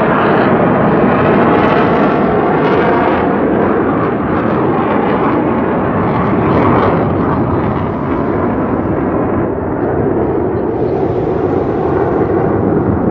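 Loud, steady jet noise from U.S. Navy Blue Angels F/A-18 Hornets flying past.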